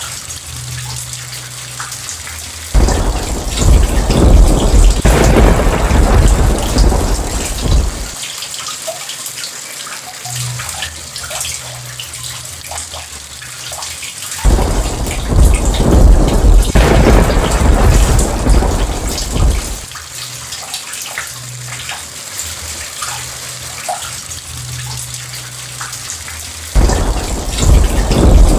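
Steady rain falling, with a thunder rumble breaking in suddenly about every twelve seconds, each one deep and lasting around five seconds before dying back to the rain alone.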